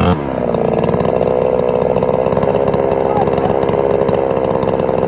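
Chainsaw engine running steadily at speed. Its pitch dips right at the start, then holds level.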